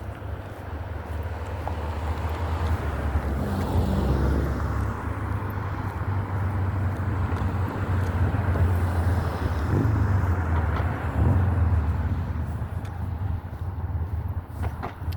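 Road traffic: cars passing, their tyre and engine noise swelling and fading a few times over a steady low rumble.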